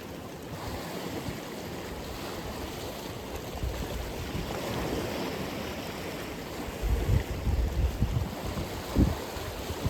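Atlantic Ocean surf: a steady wash of breaking waves, with heavier low rumbles from about seven to nine seconds in.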